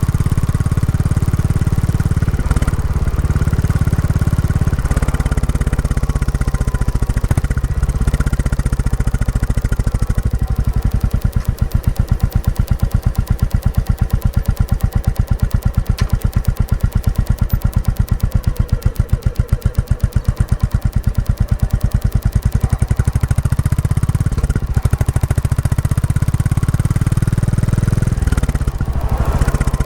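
Royal Enfield Classic 350's single-cylinder engine running through its stock exhaust on a ride while the engine is being run in. Partway through it drops to a slow, even thumping, one beat after another, and near the end it picks up again with a rise in pitch.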